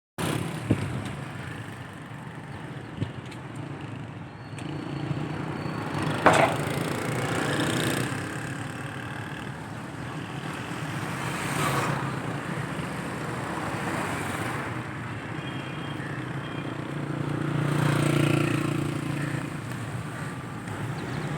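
Train running at speed: a steady rumble and rattle with a few sharp knocks, swelling about eighteen seconds in.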